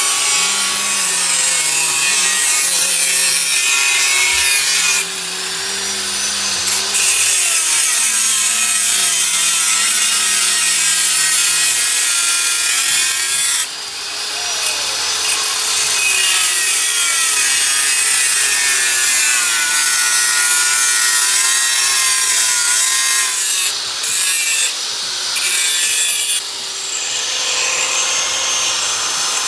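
Power tool grinding, with a steady harsh rasp that eases off briefly about five seconds in, again near the middle, and a few times near the end.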